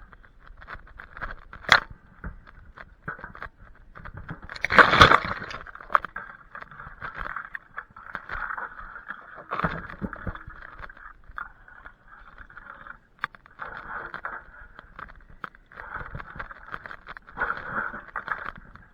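Work on tree branches: irregular scraping and rustling with scattered sharp knocks, and a loud rustling burst about five seconds in.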